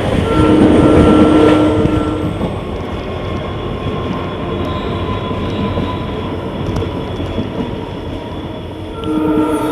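Passenger train running along the track with a steady noise of wheels and carriages. Twice, near the start and again near the end, a held multi-tone sound lasts about two seconds.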